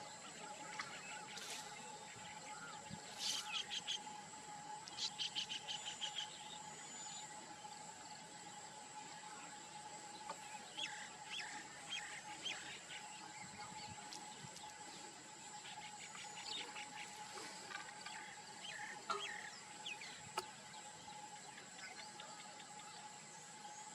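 Wild birds calling in short, rapid chattering trills and scattered chirps, over a steady high insect drone.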